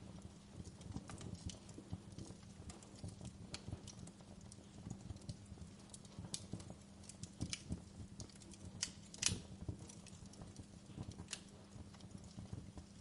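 Wood fire crackling in a fireplace: irregular small snaps and pops over a low steady hum, with one louder pop about nine seconds in.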